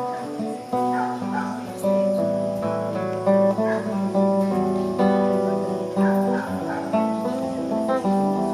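Music on a plucked string instrument: chords struck about once a second and left to ring at a slow, steady pace.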